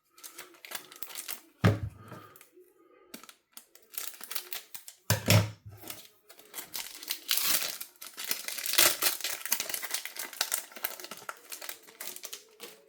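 Foil wrapper of a Pokémon booster pack crinkling and being torn open, with the cards rustling as they are handled. Two dull knocks, about 2 s and 5 s in.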